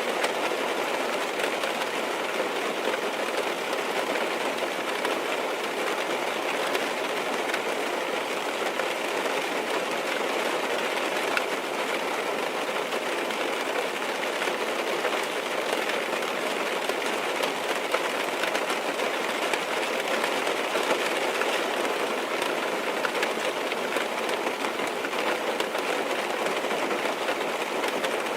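Steady rain pattering on a car's roof and windows, heard from inside the car: an even hiss of many small drops with no let-up.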